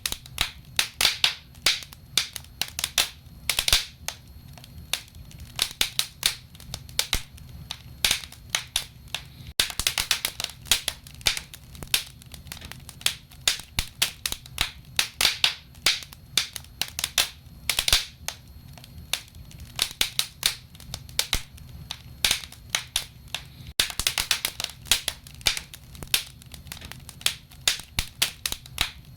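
Wood fire crackling in a fireplace: dense, irregular sharp pops and snaps, several a second, over a low steady rumble of burning.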